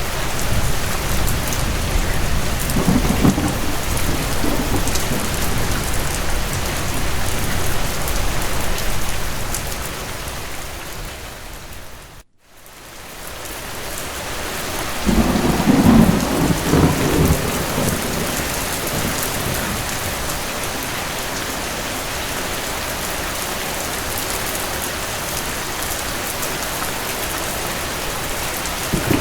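Steady rain with rolling thunder: one rumble near the start and a louder one a little past the middle. About twelve seconds in, the whole sound fades down to a moment of near silence and swells back up.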